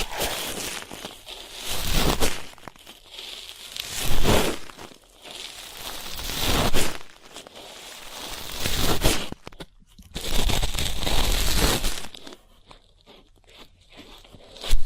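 Ear-cleaning ASMR sounds: an ear-cleaning tool scraping and rustling in an ear close to the microphone. The sound comes as irregular crunchy, scratchy swells a second or two long.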